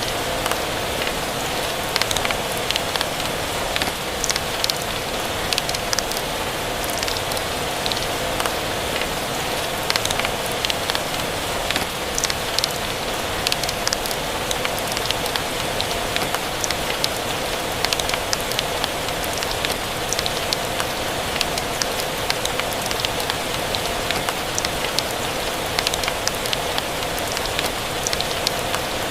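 Steady rain mixed with a crackling wood fire: an even hiss with frequent, irregular sharp pops and clicks.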